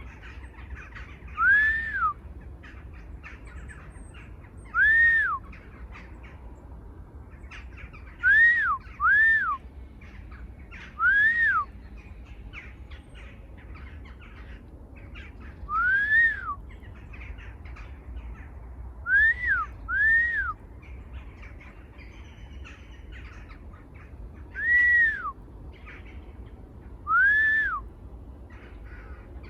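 A bird calling: about ten clear whistled notes, each rising then falling in pitch, given singly or in quick pairs every few seconds.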